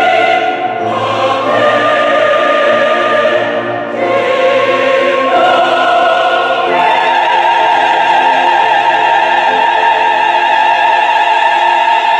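Church choir singing a Korean anthem, the voices moving through several chords. It then holds one long chord through the second half.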